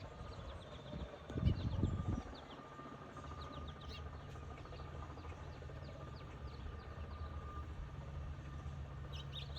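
Small birds at a feeder giving short, faint chirps over a steady low outdoor rumble, with a few dull low thumps between one and two seconds in and a couple more chirps near the end.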